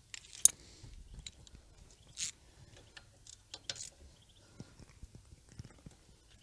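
Scattered light clicks, taps and rustles of hands handling tools or gear, irregular rather than rhythmic, with one sharp click about half a second in and a brief scraping rustle a little after two seconds.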